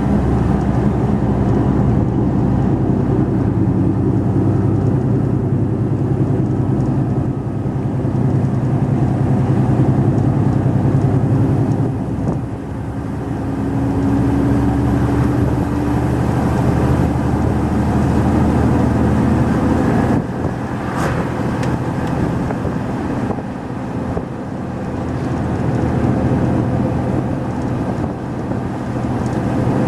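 Mercedes-Benz Actros 2546 lorry engine running under way on a mountain road, its note dipping and changing pitch about twelve seconds in, with a brief sharp sound about two-thirds of the way through.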